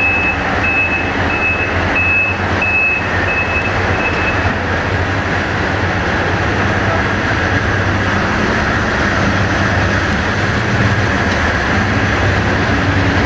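Steady low hum of a passenger train, with a run of short, high electronic warning beeps, about two a second, that stops about four and a half seconds in.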